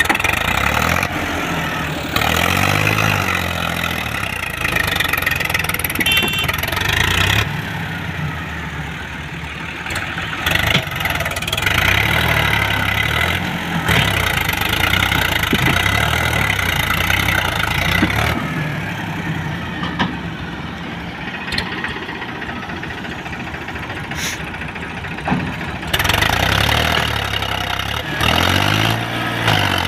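Heavy diesel engines of a JCB 3DX backhoe loader and a tractor running under work, the engine note rising and falling unevenly. The sound changes abruptly several times, with a few faint knocks.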